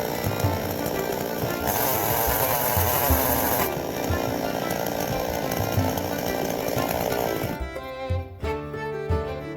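Chainsaw cutting knots and bumps off a log, its sound shifting every couple of seconds as it works, over background music with a steady beat. The saw stops near the end, leaving only the music.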